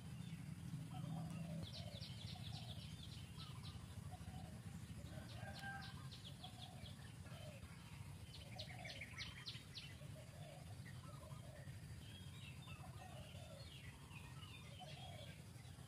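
Faint bird calls: several quick, high rattling trills a couple of seconds apart, with shorter lower calls repeating about once a second, over a steady low rumble.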